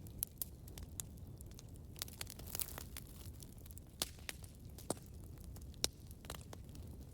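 Campfire crackling: a low steady rumble of burning under irregular sharp pops and snaps of wood, one louder snap near the end.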